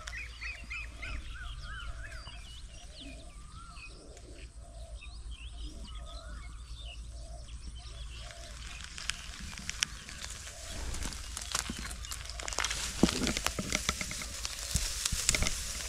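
Small birds chirping, with many short notes sliding up and down. From about nine seconds in, crackling rustles and clicks come in, growing louder toward the end.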